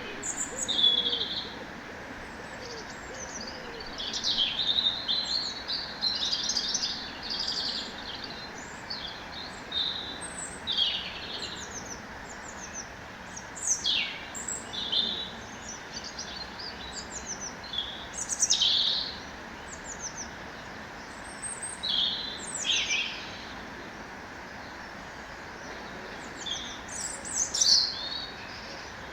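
Several birds chirping and singing in short, quick phrases, irregularly spaced, over a steady background hiss.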